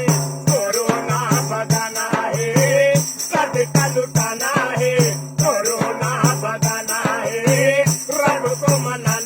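A song: a voice singing a wavering melody over a regular beat of rattling percussion and a low bass note that pulses in time.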